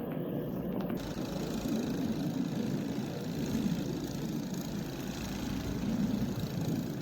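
A vehicle engine running steadily at a low rumble.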